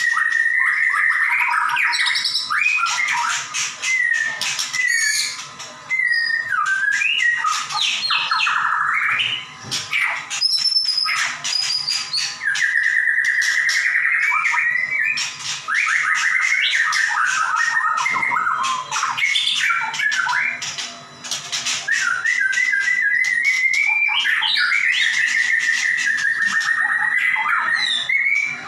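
White-rumped shama (murai batu) singing continuously and loudly: varied clear whistles, fast trills, and rising and falling glides interspersed with rapid sharp clicking notes, the 'nembak' (shooting) style of song.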